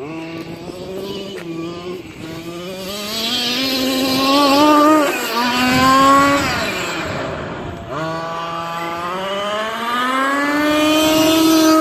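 Small two-stroke gasoline engine of a 1/5-scale RC monster truck running and accelerating. Its pitch climbs, dips and climbs again, drops back about eight seconds in, then rises and holds high near the end.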